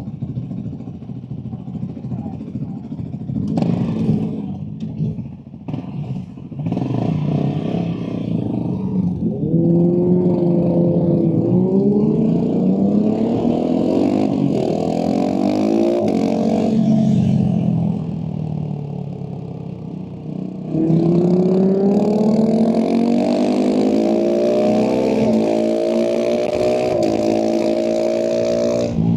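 Husqvarna 701 SM single-cylinder engine through a Leovince slip-on exhaust, ridden hard: after an uneven, lower-revving start, the revs climb and drop back at each upshift through several gears, fall away as the throttle is closed, then climb through the gears again.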